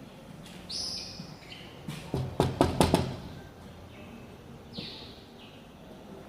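A quick run of five or six sharp knocks, about two seconds in, over a low outdoor background with a few short high bird chirps.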